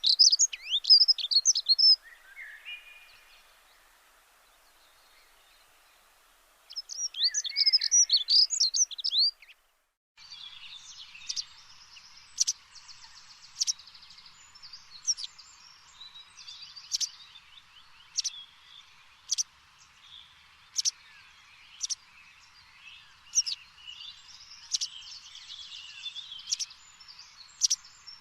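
Songbirds singing: bursts of rapid twittering chirps in the first two seconds and again from about seven to nine seconds in. After an abrupt break comes a steady series of sharp single chirps, about one a second, over a fainter chorus of bird calls.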